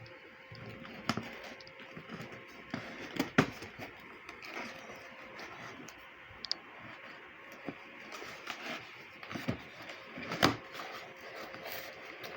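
Irregular clicks, knocks and rustling of objects being handled at close range, with a few sharper knocks about a second in, around three seconds in and near the end, over a faint steady electrical hum.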